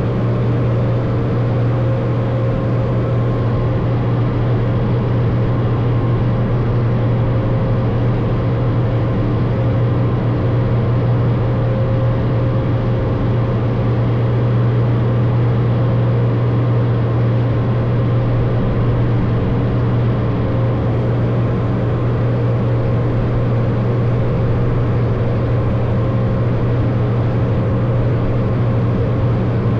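Automatic car wash machinery running with a steady, unbroken low hum and an even rush over it.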